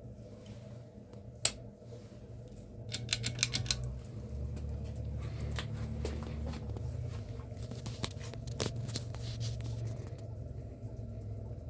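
Sportscast NASCAR 42-inch ceiling fan running with a steady low motor hum that grows louder about three seconds in. A sharp click comes about a second and a half in, a quick rattle of clicks follows around three seconds, and another click comes near the end.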